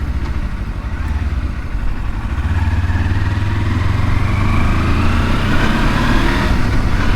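Kawasaki Versys-X 300's parallel-twin engine running on the road, its pitch rising steadily through the middle of the stretch as the bike accelerates.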